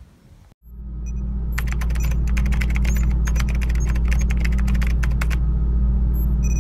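Typing sound effect: a quick run of keystroke clicks lasting about four seconds, with a few more near the end, over a loud steady low hum that fades in just after a short silence.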